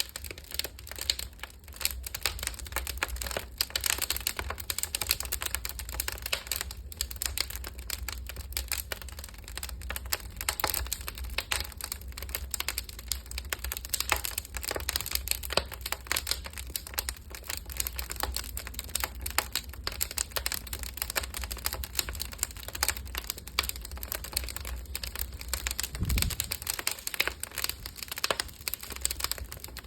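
Wood fire burning inside an oven, crackling continuously with dense, irregular snaps and pops over a low rumble. One low thump shortly before the end.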